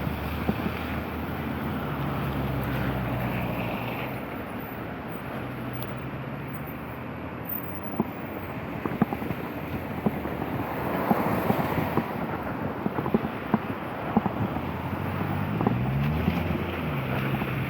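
Street traffic in the rain: a steady wet hiss with small ticks, a vehicle engine humming in the first few seconds, and another engine rising and falling in pitch near the end, with some wind on the microphone.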